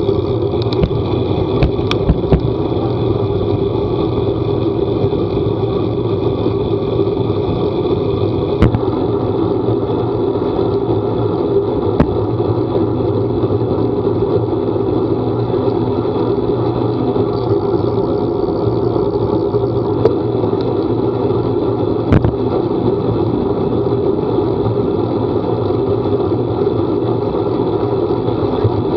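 Vehicle engine running steadily at an even speed, with a few sharp clicks or knocks scattered through.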